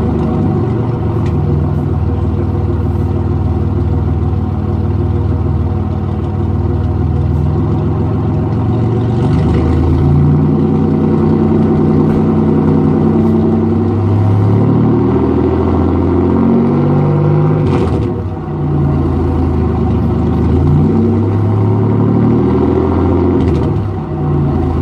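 Supercharged 3800 Series II V6 of a 2004 Chevrolet Monte Carlo SS running through a straight-piped exhaust with no catalytic converter or resonator. The engine speed rises and falls several times, and the sound dips briefly about 18 and 24 seconds in.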